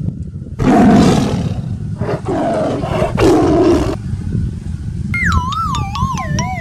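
Tiger roars laid over the picture, one loud roar about half a second in and a second, longer one from about two to four seconds in. About five seconds in, a cartoon sound effect of wavering, falling whistle tones begins. A steady low rumble runs underneath throughout.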